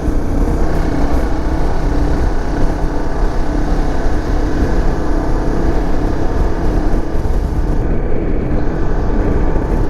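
Dirt bike engine running steadily while riding, its pitch holding fairly even.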